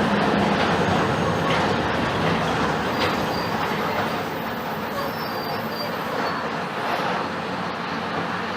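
Mercedes-Benz OF-1721 BlueTec 5 bus running on the road: a steady diesel engine note with road and body noise, easing off a little over the last few seconds.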